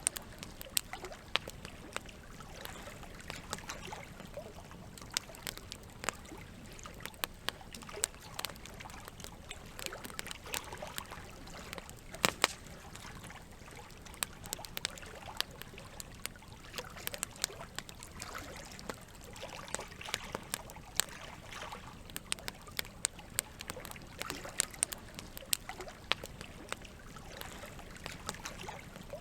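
Campfire crackling with many irregular sharp pops, the loudest about twelve seconds in, over a steady wash of running water.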